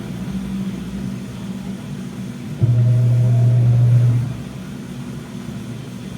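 Washing machine running a wash cycle: the drum motor hums in a burst lasting about a second and a half, starting sharply about two and a half seconds in, between quieter stretches of low rumble as the drum pauses and turns in turn.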